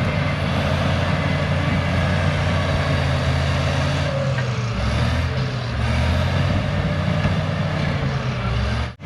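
Cat D6H bulldozer's six-cylinder diesel engine running steadily, its note dipping for a moment about five seconds in. The sound cuts out suddenly near the end.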